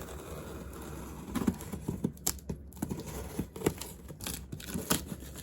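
Irregular taps, clicks and rustles of a large cardboard box being handled and opened by hand, with a few sharper knocks in the second half.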